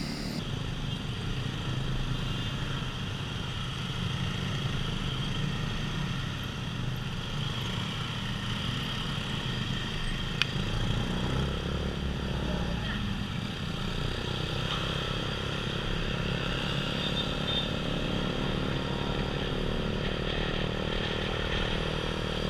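Motorcycle engine running steadily while riding, with road and wind noise. There is a single sharp click about ten seconds in.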